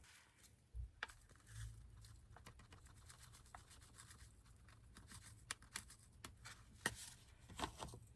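Faint rustling and scratching with scattered small clicks and taps, and two soft low thumps in the first two seconds; the sharpest clicks come near the end.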